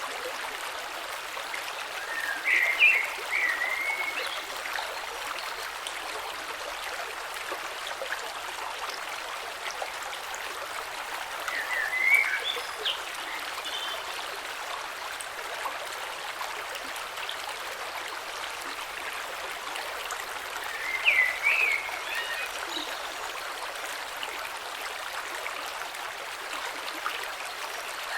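A gentle creek flowing steadily over stones below a waterfall, making a constant rushing and trickling. Three brief louder, higher-pitched bursts rise out of the flow, about nine seconds apart.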